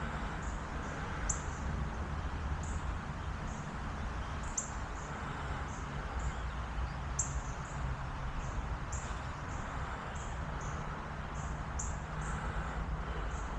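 A bird's short, high chirps repeat every half second to a second over a steady low rumble.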